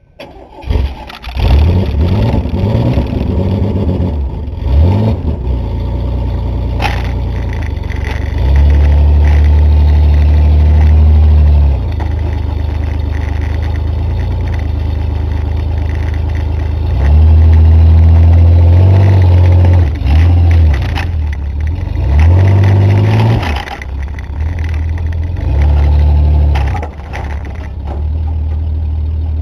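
Engine of a 1985 Chevy S10 pickup under load as the truck climbs a steep slope, its revs rising and falling over and over, held high and loud for a few seconds twice.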